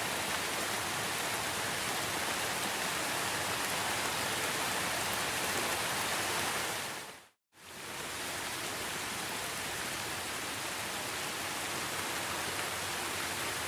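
Steady, even rain noise. About halfway through it fades out to silence for a moment and fades straight back in, as at a loop point in a rain recording.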